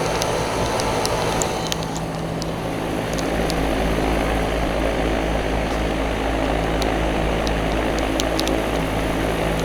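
Rheem commercial HVAC unit running: its four three-bladed fans whooshing steadily over a steady hum from the Copeland scroll compressors. A low rumble grows stronger about three seconds in.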